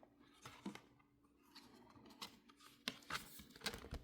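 Faint rustling and small clicks of a picture book's paper pages being handled and turned, busiest in the last second.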